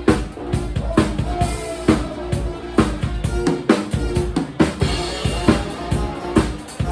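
Live band music: a drum kit keeps a steady beat with kick and snare, about two hits a second, over a deep bass and held pitched notes.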